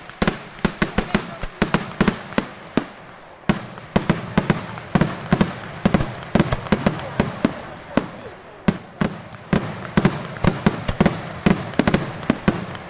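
Daytime fireworks display: a rapid, irregular barrage of sharp bangs and firecracker reports, several a second without a break.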